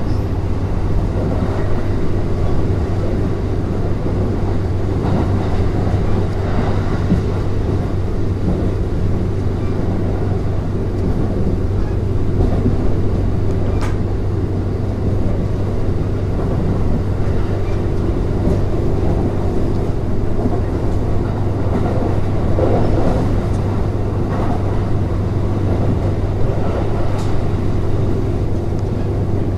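Kintetsu 3200 series electric train running between stations, heard from inside the car: a steady rumble of wheels on rail with a constant low hum, and a single sharp click about halfway through.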